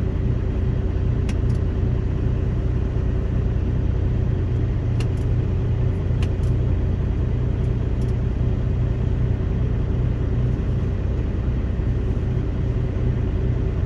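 Steady low rumble of a loaded semi truck's diesel engine and road noise heard inside the cab, with a faint constant hum and a few light clicks.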